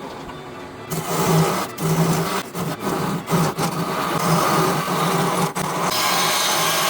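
A power tool working wood, starting about a second in. It runs in uneven strokes with brief breaks, then settles into a steady run near the end.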